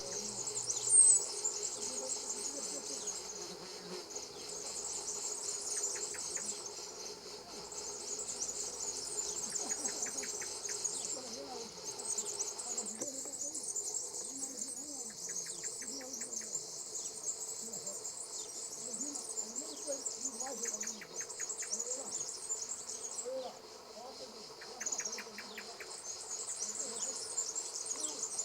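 Insects buzzing in a dense, high-pitched chorus of long phrases with short breaks, with short runs of rapid ticking now and then. A single brief bird chirp sounds about a second in.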